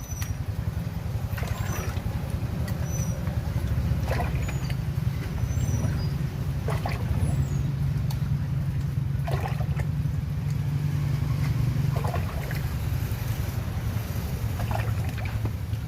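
Motorcycle engine running steadily, a low pulsing rumble that holds an even level, with a few short faint clicks over it.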